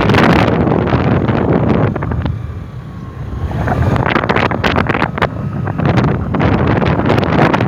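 Wind buffeting the microphone on a moving scooter, a loud, gusty rush. It eases briefly about three seconds in, letting a faint steady hum through, then comes back just as strong.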